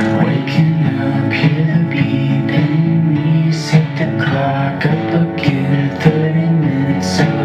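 Music played on guitar: steady strummed and picked chords running on without a break.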